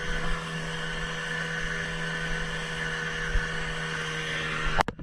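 Small boat's outboard motor running at a steady pitch. It cuts off abruptly near the end, followed by a couple of sharp knocks.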